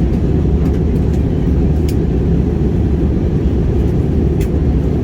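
Steady low roar of an airliner cabin in flight: engine and airflow noise heard from inside the passenger cabin. Two faint ticks come about two seconds and four and a half seconds in.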